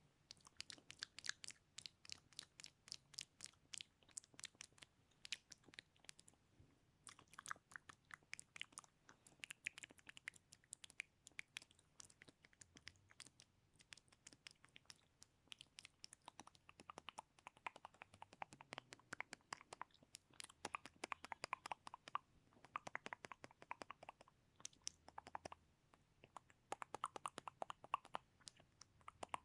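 ASMR mouth sounds: quick runs of wet clicks and smacks from the tongue and lips, broken by short pauses.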